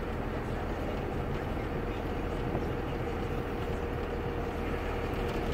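Diesel engine of a 2001 Dodge Ram 2500 running steadily through a 4-inch AFE exhaust, an even low drone with a steady hum, no revving.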